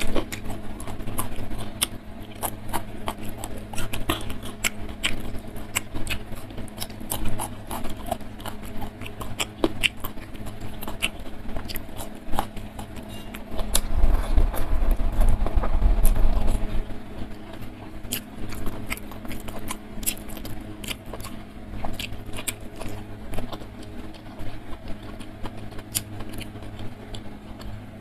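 Close-miked eating sounds: wet chewing and mouth clicks as rice and stir-fried mushrooms are eaten by hand, with fingers working the food on the plate. The sounds get louder and fuller for a few seconds about halfway through as a handful goes into the mouth. A faint steady hum lies underneath.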